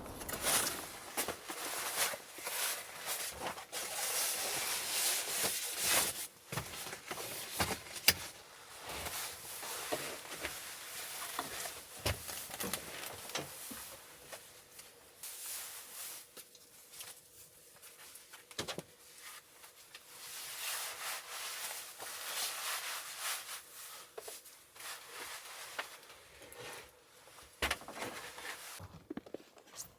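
Irregular rustling and rubbing with scattered light clicks and knocks, as of camping gear being handled; busiest in the first several seconds and again past the middle.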